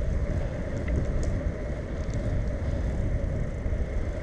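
Wind rushing over the microphone of a camera carried on a moving bicycle, with the rolling rumble of the bike underneath: a steady low noise with a few faint ticks.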